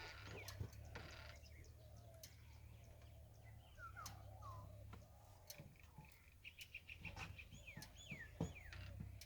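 Faint bird calls: a few curved chirps, then a quick run of short notes and down-slurred calls, over a low steady rumble with scattered light knocks.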